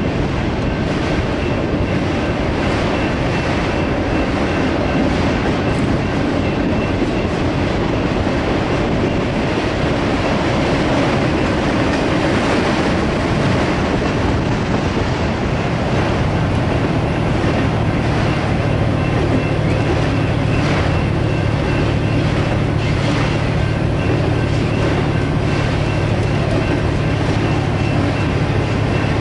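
Empty autorack freight cars rolling past at a grade crossing: a steady, continuous rumble of steel wheels on the rails.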